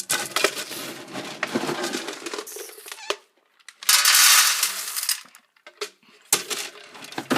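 Dry cat food being served: hard kibble rattling and clinking as it is shaken and poured into a dish, with a louder pour about four seconds in.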